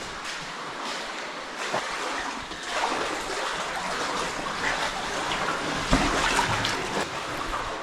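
Water splashing and running in a spring-fed cave stream, getting louder about three seconds in, with scattered knocks and one heavy thump a little before six seconds in.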